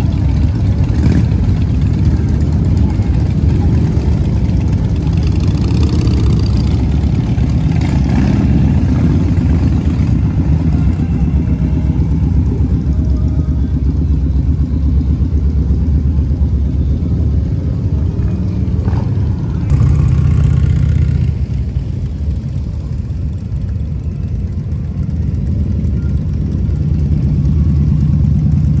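Motorcycle engines idling and running at low speed in slow street traffic, a continuous low rumble. It eases off for a few seconds about twenty seconds in, then a nearby engine holds a steady idle near the end.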